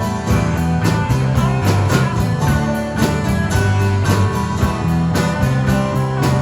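Live rock band playing, with guitars over bass and drums keeping a steady beat.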